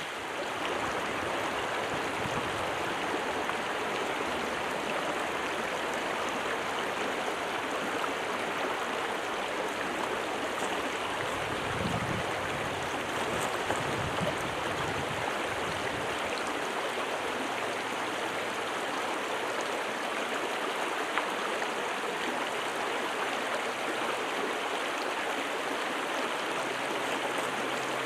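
A small stream running steadily, a continuous babble of moving water.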